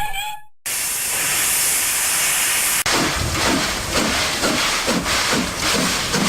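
Steam locomotive: a whistle's tail dies away, then a steady hiss of escaping steam, and about three seconds in the exhaust starts chuffing in an even rhythm, roughly three beats a second.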